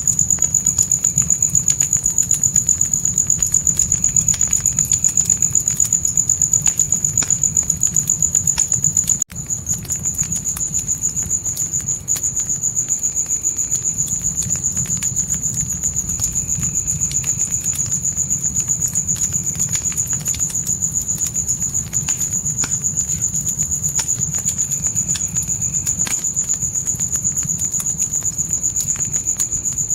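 Crickets chirping in a fast, even, high-pitched pulse over a campfire's low steady rumble, with scattered small crackles and pops from the burning wood. The sound dips briefly about nine seconds in.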